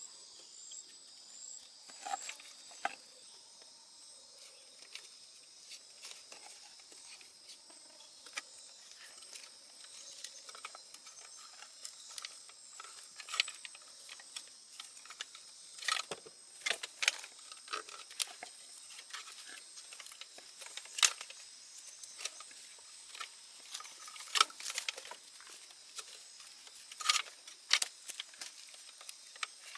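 Steady, high insect chirring from night insects such as crickets, with scattered sharp clicks and knocks throughout.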